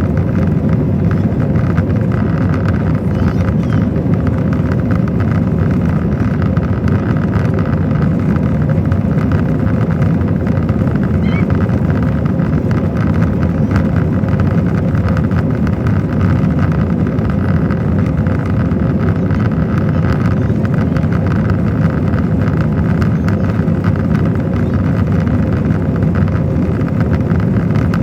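Steady engine and airflow noise inside the cabin of an Airbus A321 airliner, low and unchanging, with a faint steady hum on top.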